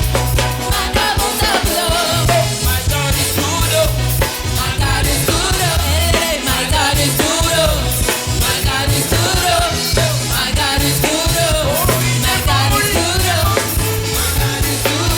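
Worship song with a band: a lead vocal sung over bass guitar and drums.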